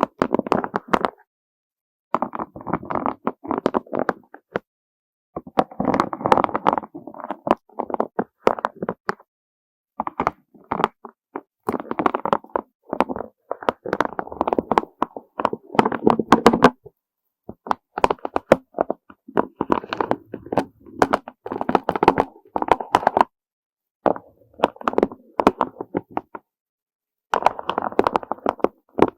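Soft, rapid clattering and tapping of small hard objects, a dense run of light knocks. It comes in bursts of one to three seconds with brief silent breaks between them.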